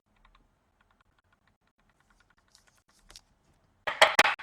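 Rapid light clicking, like typing, for about three seconds, then loud sharp clattering from about four seconds in.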